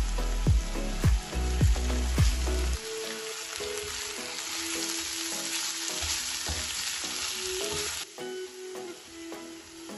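Chicken pieces sizzling in oil in a frying pan while a spatula stirs them; the sizzle is strongest in the middle and drops off suddenly about eight seconds in. Background music plays throughout, with a heavy bass beat for the first three seconds and a quiet tune after.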